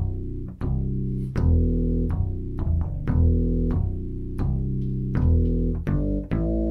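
Yamaha PSR-175 portable keyboard playing a low, plucked-sounding preset voice: a repeating line of bass notes, each starting with a sharp attack and dying away.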